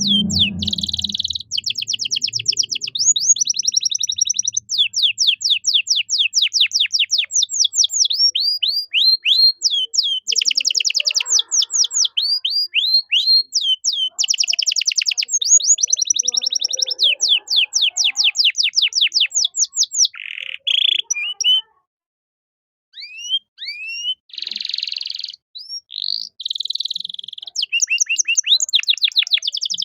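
Domestic canary singing a long song of fast trills: runs of quick, high, downward-sweeping whistled notes strung into rolls and chattering phrases, with a short pause about 22 seconds in.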